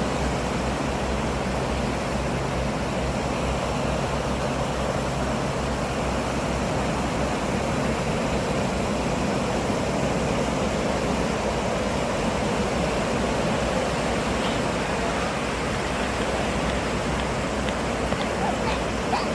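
Sea waves breaking and washing along the shore, a steady continuous rush of surf with a low rumble underneath.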